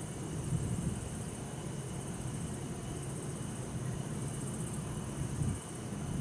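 Night city ambience: a steady low rumble of distant traffic, with bell crickets and other insects chirping steadily and faintly in the high register above it.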